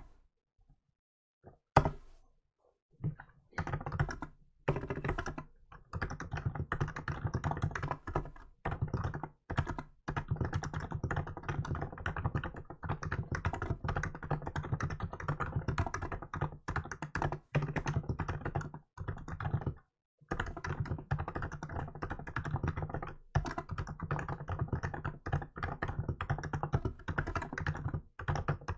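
Continuous typing on a Hansung GK868B electrostatic capacitive keyboard with milk keycaps, fast runs of key strokes broken by short pauses. After a brief pause at the start, one stroke about two seconds in stands out louder than the rest.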